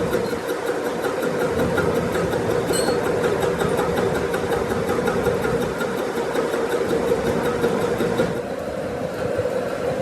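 A machine running steadily with a constant hum over a noisy hiss. The higher hiss falls away about eight seconds in while the hum carries on.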